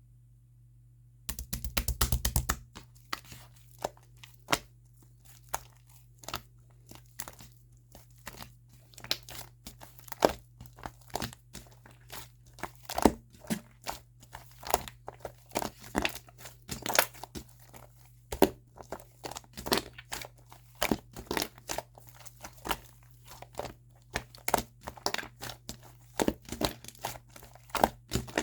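Purple shaving-foam slime being squeezed and stretched by hand, giving off irregular sharp crackles and pops as air bubbles in it burst. A dense flurry of crackling comes about a second in, after a brief near-silence.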